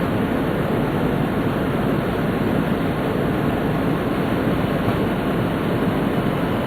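Steady rushing running noise inside a Tohoku Shinkansen Hayate (E2 series) train travelling at speed, even and unbroken throughout.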